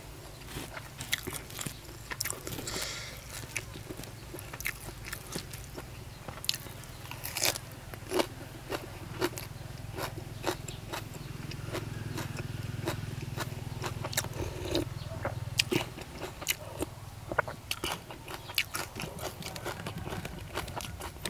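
A man chewing crunchy food close to the microphone, with many short wet crunches and mouth clicks. A low steady hum runs under the chewing for several seconds midway.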